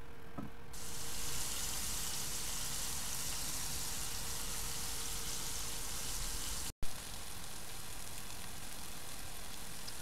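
Chicken breasts frying in a pan of olive oil, garlic and butter: a steady sizzle that starts abruptly just under a second in and drops out for a moment near seven seconds before carrying on.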